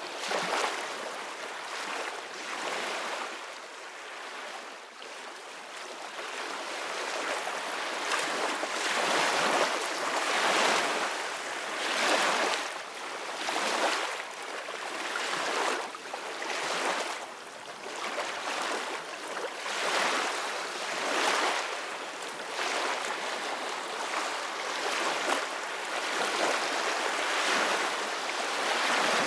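Ocean waves breaking and washing in, a hiss of surf that swells and fades every second or two.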